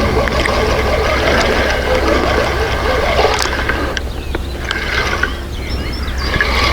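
Fishing reel being wound in while playing a small fish to the bank, with a clicking, mechanical whirr that eases off about four seconds in, over a steady low rumble.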